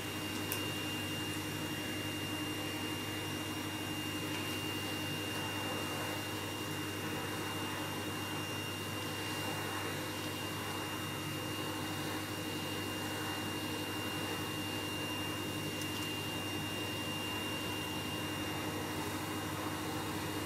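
Vacuum cleaner running steadily, with a constant hum and a high whine over its even rushing noise.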